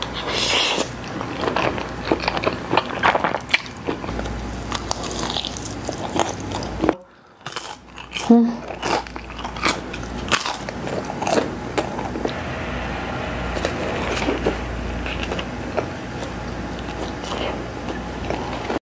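Close-miked eating sounds: a woman chewing and biting McDonald's food, spaghetti and a Big Mac, with crunchy bites and crackling clicks. About seven seconds in, the sound drops briefly to near silence.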